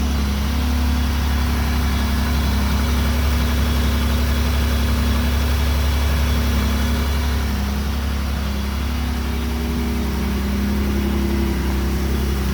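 Honda NSX's freshly rebuilt 3.6-litre stroker V6 idling steadily just after its first start, still on the unchanged base map.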